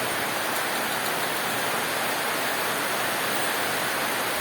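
Steady heavy tropical rain falling, an even hiss with no breaks.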